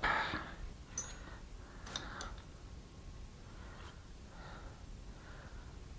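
Faint, light clicks of steel angle blocks being stacked together, a few taps around one and two seconds in.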